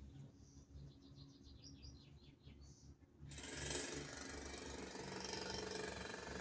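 A small bird sings a quick series of about ten high chirps. A little over three seconds in, a loud jackhammer starts abruptly and keeps running, drowning out the birdsong.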